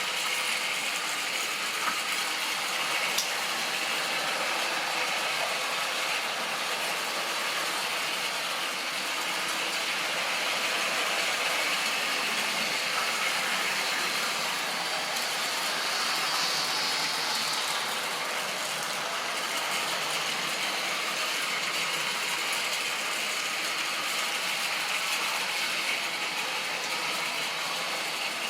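Model train running on its track: a steady mechanical whirr and rattle of the locomotive's motor, gears and wheels, growing a little louder towards the middle.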